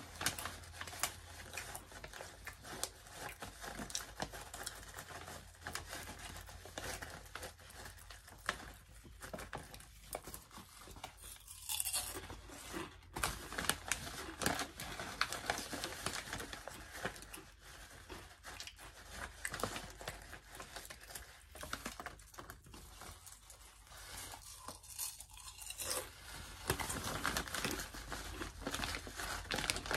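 Close-up chewing of crunchy wavy potato chips: a steady, irregular run of crisp crunches with a few short pauses.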